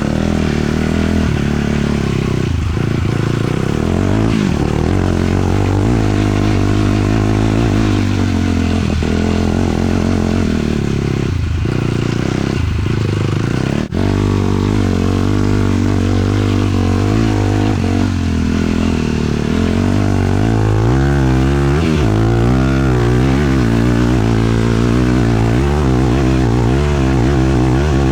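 450cc sport quad's single-cylinder four-stroke engine running while riding, its pitch rising and falling with the throttle, with a momentary break in the sound near the middle.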